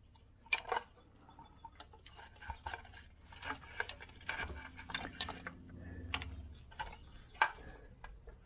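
Irregular light clicks and small rattles of a car engine's wiring harness and its plastic connectors being handled and routed by hand, with a sharper click about half a second in and another near the end.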